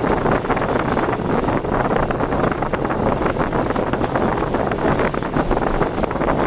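Steady rushing noise of typhoon wind on the microphone, mixed with the running noise of a car driving on the road.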